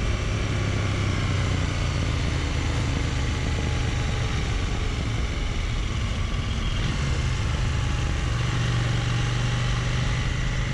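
Motorcycle engine running steadily at moderate road speed, with wind and road noise over the microphone. The engine note steps up about eight seconds in.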